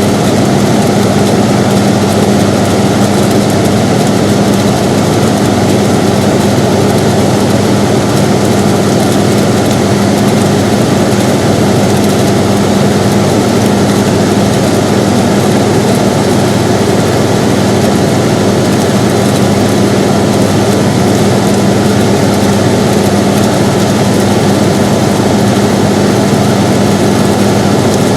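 Air conditioner running steadily: an even whooshing noise with a constant low hum, unchanging throughout.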